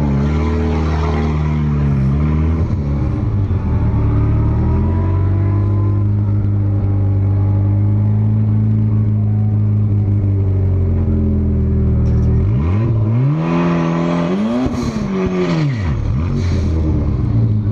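Turbocharged VW Corrado 16V four-cylinder engine idling steadily, with a few light blips of the throttle in the first couple of seconds. From about two-thirds of the way in, an engine revs up and falls back down over roughly four seconds.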